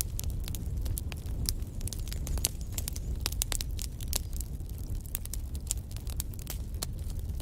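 Wood fire burning in a fireplace, crackling with many irregular sharp pops over a steady low rumble of flames.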